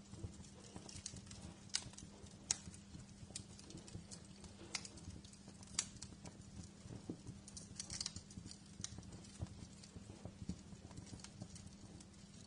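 Wood fire in a fireplace crackling: irregular sharp pops and snaps, a few louder than the rest, over a low steady rumble.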